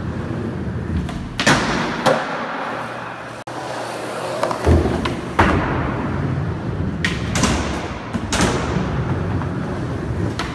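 Skateboard wheels rolling, with several sharp clacks and thuds of the board hitting the ground.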